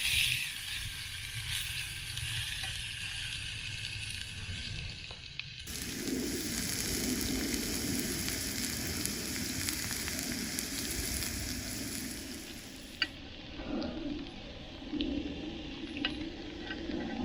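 Meat sizzling as it cooks, a steady hiss that changes abruptly about six seconds in and again about thirteen seconds in, with a few sharp pops near the end.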